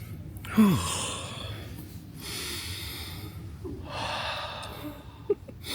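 A man taking deep, audible breaths of fresh air, three long noisy breaths in a row, the first opening with a short falling voiced sound.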